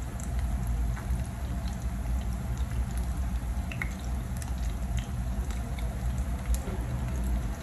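Ground beef and egg patties frying in hot oil in a pan: a steady sizzle with scattered small pops of spattering oil, over a low steady rumble.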